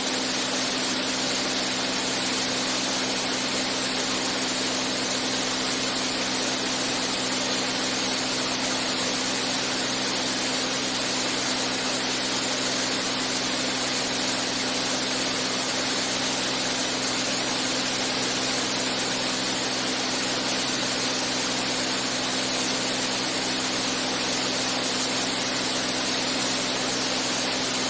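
Steady drone of an A36 Beechcraft Bonanza's piston engine and propeller in level flight, heard inside the cockpit: an unchanging low hum with a few fixed tones under a broad hiss.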